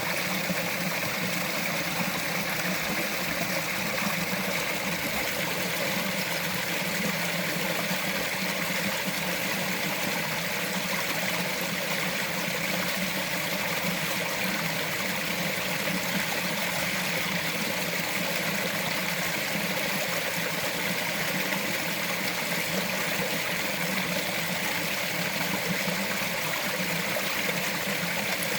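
Small mountain forest stream running steadily over rocks, a continuous even babbling rush with no breaks.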